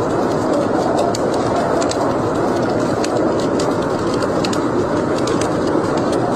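Wood fire burning in a fireplace: a steady rushing noise from the flames with irregular sharp crackles and pops, several a second.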